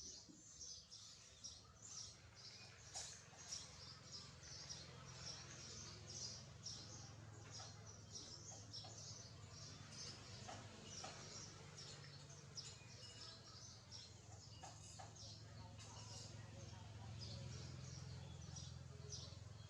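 Faint, rapid chirping of a young bird: many short high chirps each second, with a steady low hum underneath.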